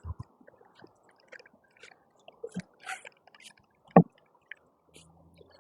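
Microfiber rag wiping water off a car's body: scattered soft rubbing and small clicks, with one sharp knock about four seconds in.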